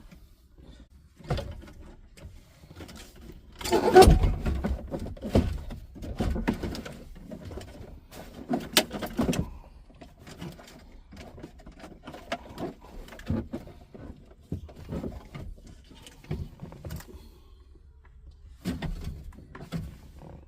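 Scattered knocks, clunks and rattles of car interior parts being handled during dash disassembly, the loudest clunk about four seconds in.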